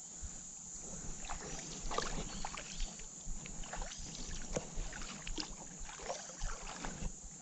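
Irregular small plops and splashes of a topwater cicada lure being twitched across the water surface, over a steady high-pitched insect buzz.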